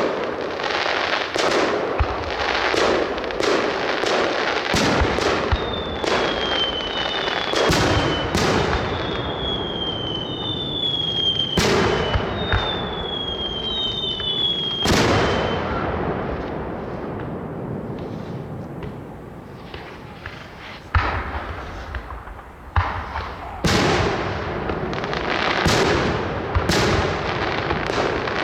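Fireworks display: a rapid run of shell bursts and bangs, with several falling whistles from whistling fireworks through the middle. After a brief lull about two-thirds of the way in, loud bursts start up again, thick and fast.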